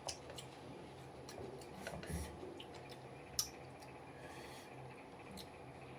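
Eating sounds: scattered soft clicks and wet mouth smacks of someone chewing food, with one sharper click about three and a half seconds in.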